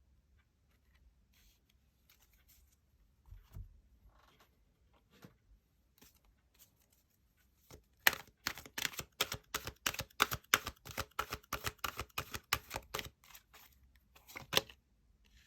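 Tarot cards being handled and shuffled. First a few faint scattered clicks, then from about eight seconds in roughly five seconds of quick card clicking and slapping, many strokes a second, with a couple of last snaps near the end.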